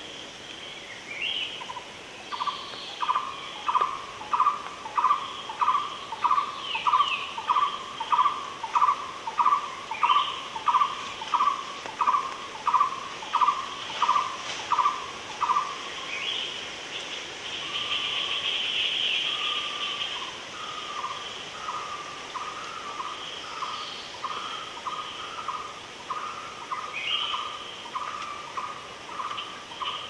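A bird calling a short pitched note over and over, about one and a half times a second for some thirteen seconds, then a softer, quicker run of similar notes. Other birds chirp and trill higher above it.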